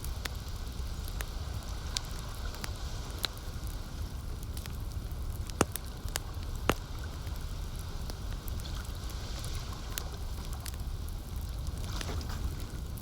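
Wood campfire crackling, with irregular sharp pops and two louder snaps near the middle, over a steady low rumble.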